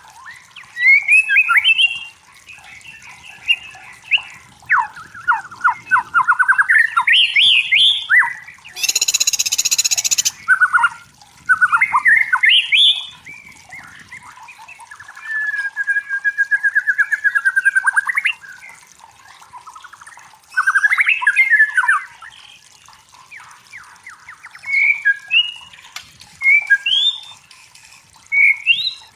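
White-rumped shama singing in a string of varied phrases: fast rising whistles, rapid trills and a level warbled run. About nine seconds in comes a loud harsh hiss lasting over a second.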